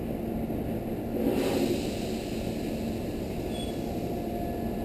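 Tobu 8000 series electric train pulling away from the platform: a steady low rumble of motors and wheels as it starts to roll, with a short hiss about a second and a half in.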